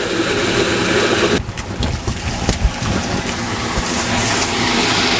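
Storm runoff rushing through a flooded street gutter and storm drain: a loud, steady hiss of water. A few knocks and clicks come in the middle.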